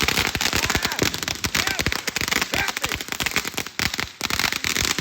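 Ground firework fountain crackling with a rapid, dense string of small pops, thinning a little partway through.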